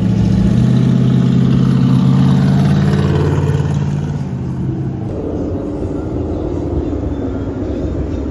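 Loud car engine running at high revs with a steady note that fades away about four to five seconds in, followed by quieter engines running and slowly rising in pitch.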